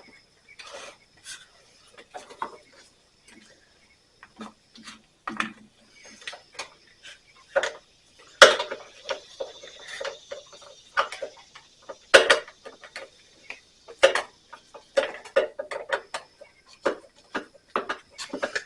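Irregular clicks, taps and clanks of hand tools and small parts being handled while a lawn mower engine's carburetor and fuel parts are worked on, with two louder knocks about a third and two thirds of the way in.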